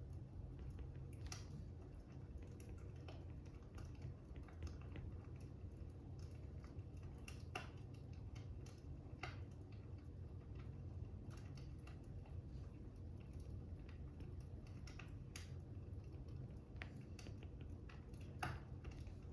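Faint crackling fire: irregular sharp pops and snaps over a steady low rumble.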